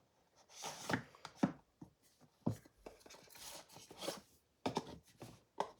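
Handling sounds of small packaging: brief rustles of paper or card with scattered light taps and clicks.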